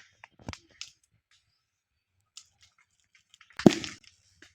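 A tightly twisted, pressurised plastic bottle shooting its cap off with one sharp, loud pop about three and a half seconds in, after a few faint clicks.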